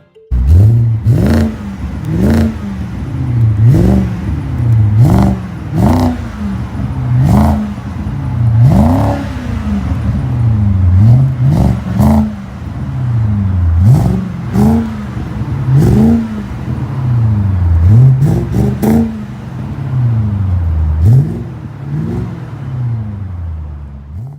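2005 BMW 545i's 4.4-litre V8 revved in quick throttle blips, about one a second, the pitch rising and dropping back each time. It is heard through a freshly fitted cat-back exhaust: a custom Y-pipe into a single 2½-inch pipe and a Flo~Pro Max stainless muffler.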